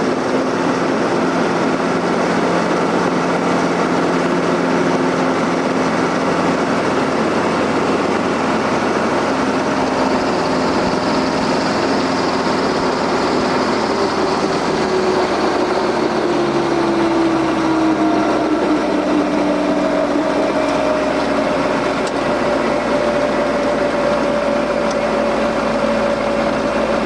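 Helicopter engine and rotor noise, steady and loud throughout, with a whine that slides down in pitch about halfway through.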